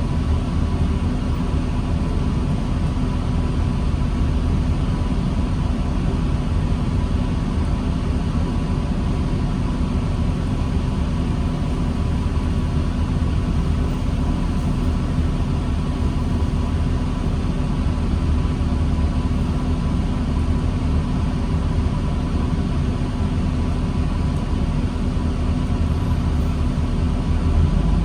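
2009 New Flyer D40LFR diesel transit bus engine running steadily with a deep rumble and a constant hum, no revving.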